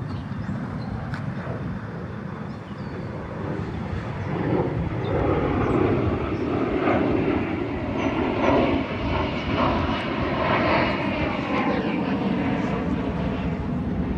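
An airplane's engines passing overhead, a steady rumbling drone that swells about four seconds in and stays loud.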